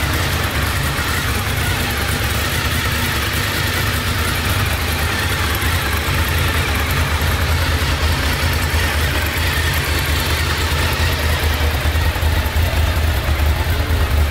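Honda VFR750 motorcycle's V4 engine idling steadily.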